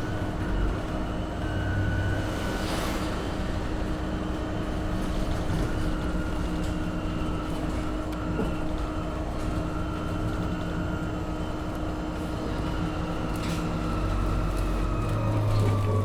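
Interior ride sound of a 2015 MAN Lion's City hybrid city bus under way: the drivetrain hums steadily with a whine above it, and the whine sinks in pitch over the last few seconds as the bus slows.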